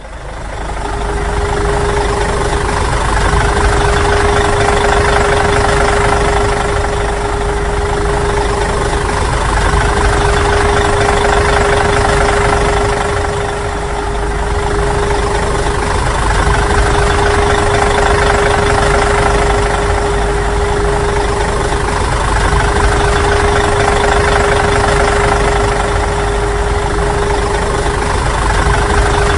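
Remote-control model truck running, a steady whine over a continuous engine-like rumble, dipping briefly about halfway through.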